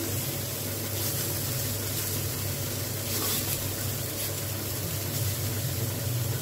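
Drumstick flowers and eggplant pieces frying in a little oil in a metal kadai: a steady sizzle and hiss, with a few scrapes of a metal spatula stirring them, over a steady low hum.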